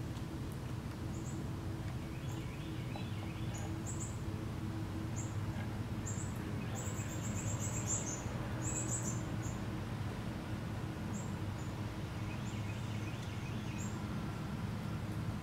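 Small birds chirping in short, high notes that repeat irregularly and crowd together near the middle, over a steady low hum of outdoor background noise.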